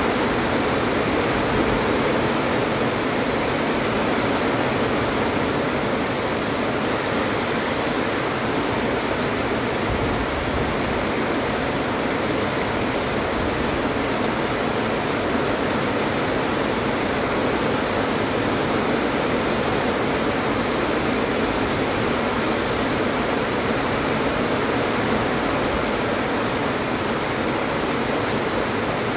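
Heavy rain pouring down in a steady downpour, an even wash of sound with no breaks.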